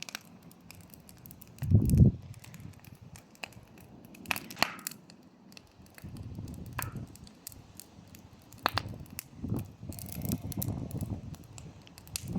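Bonfire of cut grass and brush crackling and popping with scattered sharp snaps, along with low rushing sounds that are loudest about two seconds in.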